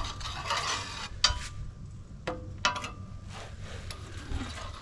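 Metal ramrod scraping and clinking inside a greasy steel bore as a grease rag is pushed through to clear out packed grease. Several sharp metallic clinks ring briefly over the scraping.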